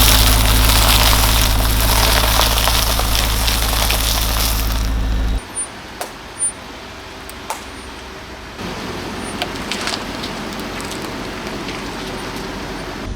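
A car's engine running close by with a steady low hum, under dense crackling and crunching as the car crushes objects under its tyres. About five seconds in it stops abruptly, leaving a few scattered clicks and then a softer, steady noise.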